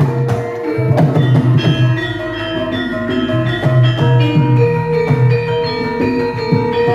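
Javanese gamelan ensemble playing a gending: struck metal keys and gongs ringing in held tones over repeated drum strokes.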